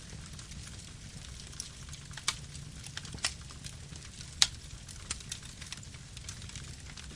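Campfire burning: a steady low rumble of flames with scattered sharp crackles and pops of burning wood, the loudest pop about four and a half seconds in.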